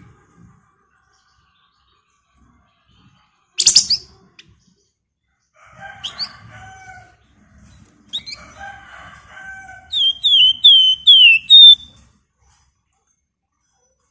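Flamboyan cage bird singing: a single sharp loud note about four seconds in, lower harsh chattering notes, then a quick run of five loud downward-sliding whistles near the end.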